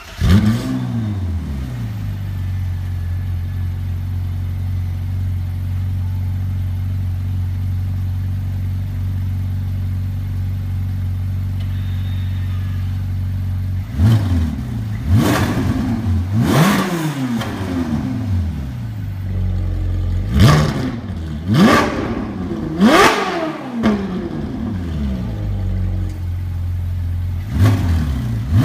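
Ferrari 458 Italia's V8 through an EXHAUTECH valved aftermarket exhaust: it catches with a short rev at the start and settles into a steady idle. From about halfway it is blipped again and again, each rev rising sharply to a high pitch and dropping back to idle.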